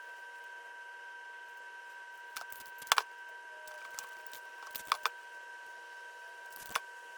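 A handful of sharp clicks and knocks, two of them in quick pairs, over a steady high-pitched electrical hum.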